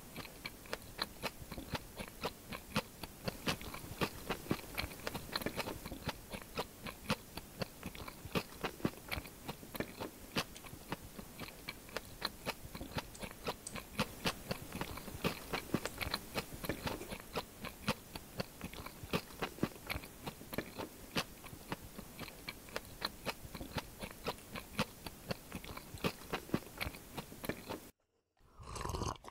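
Close-miked chewing of a crunchy fried snack, a dense run of crisp crunches and mouth sounds. It stops near the end.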